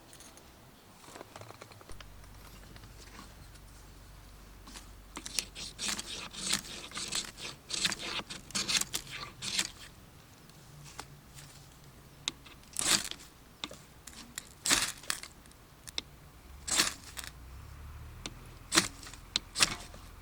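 Things being handled up close: a few seconds of crinkling and rustling, then several sharp clicks or clinks about two seconds apart.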